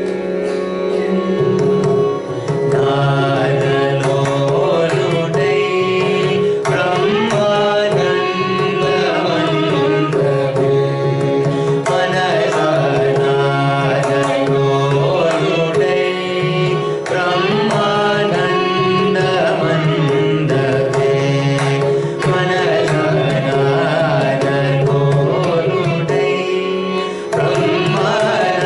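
Carnatic vocal music: a singer's voice sliding through ornamented, gliding phrases over a steady drone, with mridangam drum strokes keeping the rhythm.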